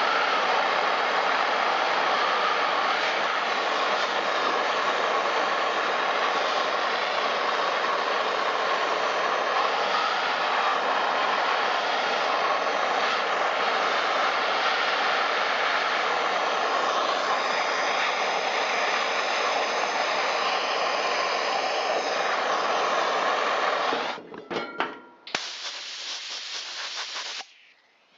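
Handheld blowtorch flame burning steadily on a carbon- and fuel-clogged spark arrestor screen from a two-stroke blower muffler, burning off the deposits. The flame cuts off about 24 seconds in, followed by a few clicks and two short hisses.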